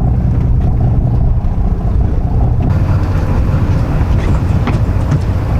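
Charter boat's engine running with a steady low drone; a hiss joins about halfway through.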